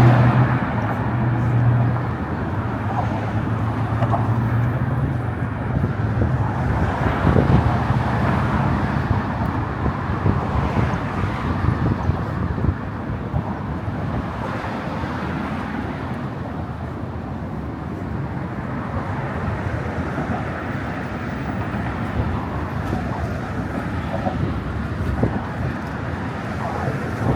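Steady motor traffic noise from cars on the bridge roadway, a continuous wash of tyre and engine sound, with a low steady hum in the first few seconds.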